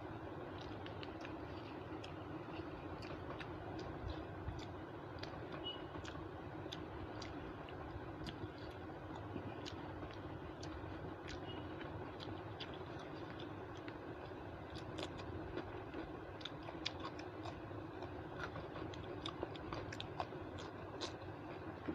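A person chewing a mouthful of rice and chicken curry, with many small wet mouth clicks and smacks that come more often in the second half, over a steady low hum.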